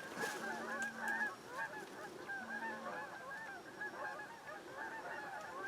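A large flock of geese honking, many short calls overlapping into a continuous faint chatter. Two brief faint steady hums sound in the first half.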